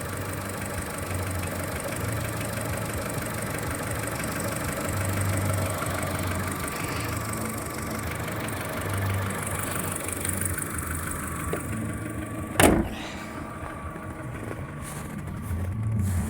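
Skoda Fabia 1.4 engine idling cold. The hydraulic lifters tick, and there is a knock from low in the engine that the dealers put down to piston slap. One sharp loud click comes near the end.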